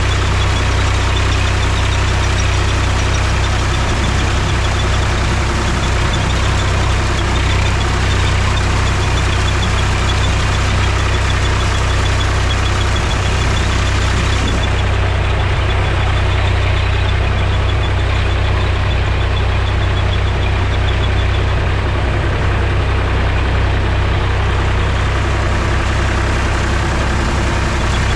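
Mahindra tractor's diesel engine running steadily with a deep, even drone.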